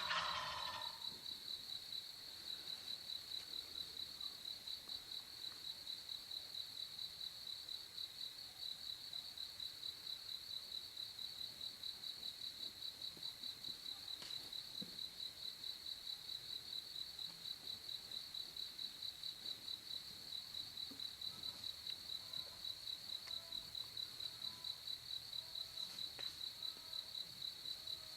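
An insect trilling steadily in a high, even pulse of about four beats a second. In the first second the tail of an Eastern wild turkey gobble fades out.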